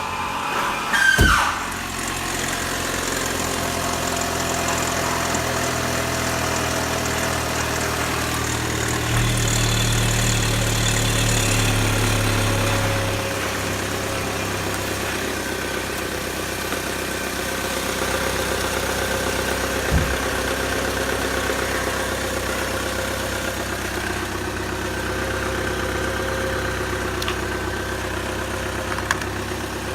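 Opel Z22SE 2.2-litre four-cylinder petrol engine starting about a second in, the starter's whine falling away as it catches, then idling steadily. The idle runs a little higher and louder for a few seconds before settling.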